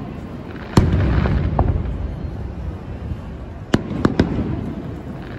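Aerial fireworks shells bursting. A sharp bang about a second in rolls off into a rumbling echo, then two or three more bangs come close together about four seconds in.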